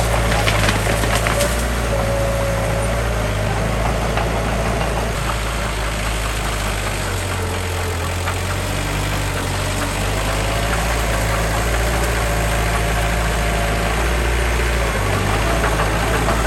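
Heavy diesel earthmoving machinery running steadily, with a faint whine that fades in and out and a few light metallic clanks about a second in.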